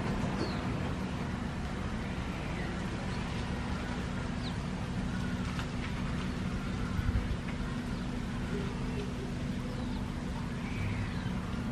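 Steady low rumble of distant road traffic, with faint short bird chirps over it and a few faint taps near the middle.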